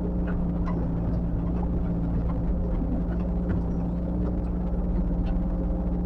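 Diesel engine of heavy earthmoving machinery running steadily at a constant speed, with faint scattered clicks over it.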